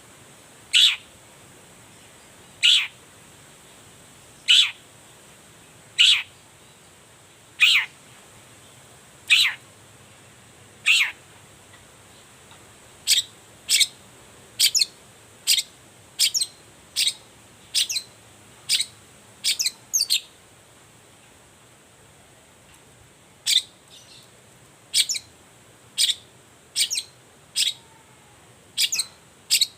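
Long-tailed shrike (cendet) repeating a short, sharp 'toet' call, each note falling steeply in pitch. The calls come about every two seconds at first, then faster, about one a second, with a pause of a few seconds past the middle.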